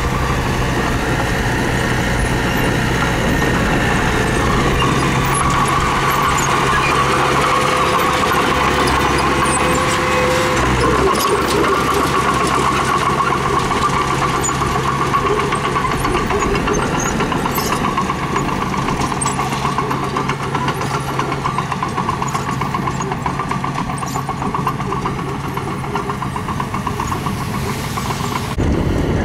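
Diesel engine of a mini bulldozer running steadily at work, its note changing about eleven seconds in.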